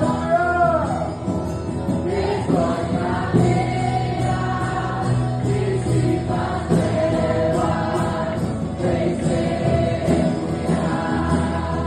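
Live gospel worship song: a group of voices singing together over instrumental accompaniment with a steady bass.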